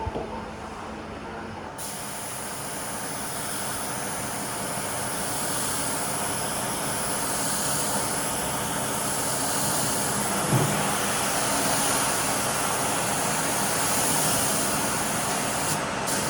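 Steady hiss of a compressed-air spray gun spraying a finish coat onto wood. It starts about two seconds in, grows slowly louder and stops abruptly near the end, with a light knock about ten seconds in.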